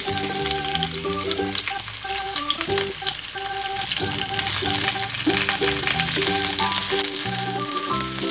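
Sliced red onion rings sizzling steadily as they fry in hot oil in a wok, under background music.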